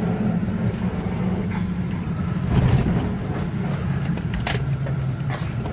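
Car engine and tyre noise heard from inside the cabin while driving, a steady low hum with a couple of sharp knocks or rattles near the end.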